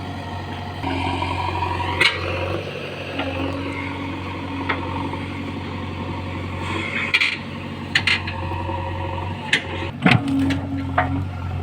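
Diesel machine engine running steadily at a low even drone, with sharp knocks and cracks breaking in about every second or two, most often near the end.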